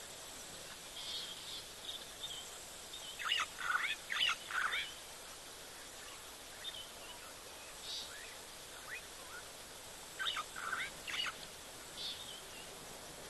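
Wild birds calling: short chirps that come in clusters, a busy run about three seconds in and another about ten seconds in, over a faint steady background hiss.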